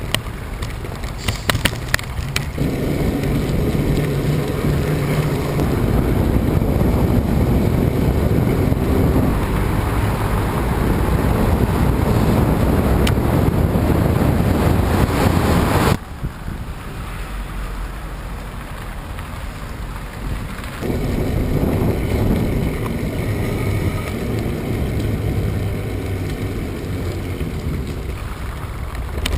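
Strong wind buffeting the microphone during a ride, a loud rumbling rush, with a few clicks near the start. The noise drops suddenly a little over halfway through and builds up again a few seconds later.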